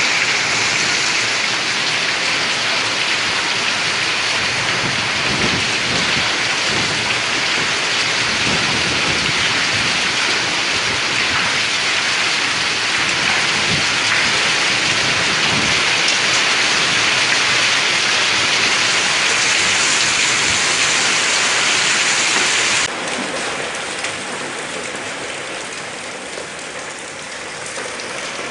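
Hailstorm: heavy rain and hailstones pelting down in a dense steady hiss, with many short knocks of hailstones striking. About 23 seconds in it drops suddenly to a quieter, lighter patter.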